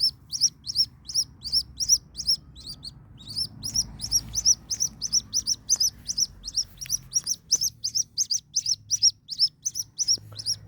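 White-breasted waterhen chick peeping over and over: short, loud, high-pitched peeps, each rising and falling, about three a second, with a brief pause about three seconds in.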